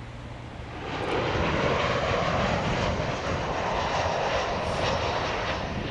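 Airliner engines on landing approach, swelling about a second in to a loud, steady noise as the aircraft passes close by.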